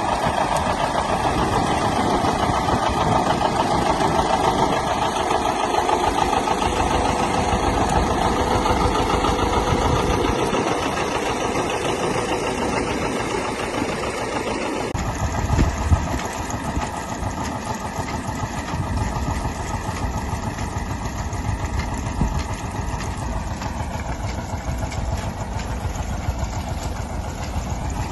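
Tractor engine running steadily. About halfway through, the sound changes abruptly to a lower, rougher running.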